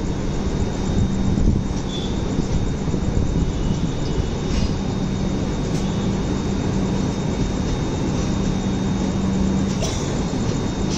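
Steady rumble and wheel-on-rail noise of a moving Indian passenger train, heard from on board at an open door or window, with a low hum that fades in and out.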